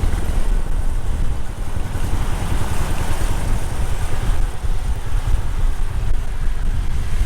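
Riding on a motorcycle: a steady rumble of engine and road noise, with wind buffeting the microphone.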